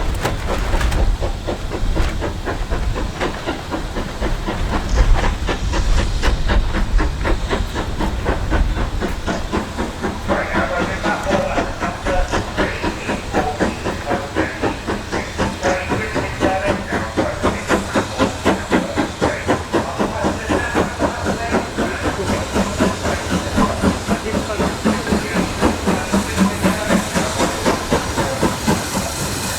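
Steam locomotive working, its exhaust beats coming in an even rhythm with steam hissing.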